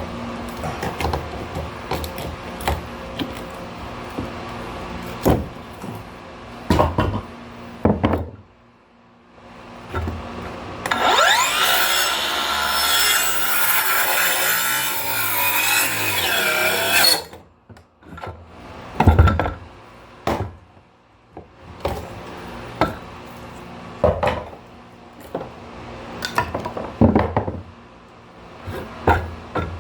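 A power saw speeds up and cuts through wood for about six seconds, then stops sharply. Scattered knocks and thumps from lumber being handled come before and after it.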